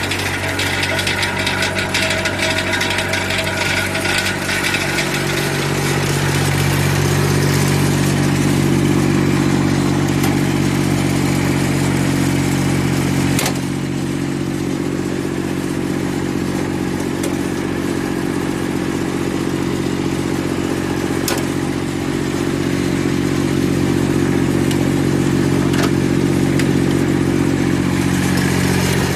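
Diesel engine of a Yanase 11-17HD snowblower running steadily. Its note grows fuller about five seconds in, eases off a little about halfway through, and picks up again near the end, with a couple of sharp clicks.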